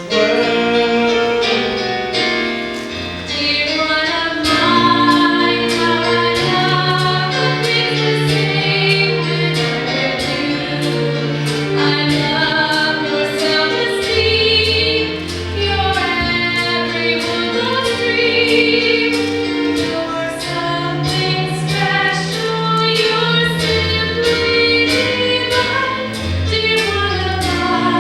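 A musical-theatre song number: singing with a band accompaniment, a bass line and a regular beat.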